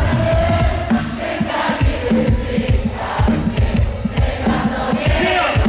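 Live pop music played loud over a stadium sound system, with a heavy, regular drum beat and singing, while the crowd cheers and sings along.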